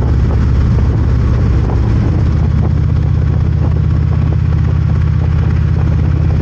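Harley-Davidson V-twin motorcycle engine running under way, a steady low drone with wind and road noise; the engine note shifts about two and a half seconds in.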